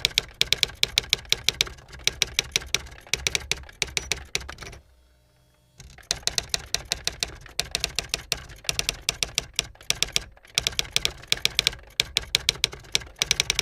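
Typewriter keys striking in rapid runs of sharp clacks, about seven a second. The typing stops for about a second near the middle, then carries on.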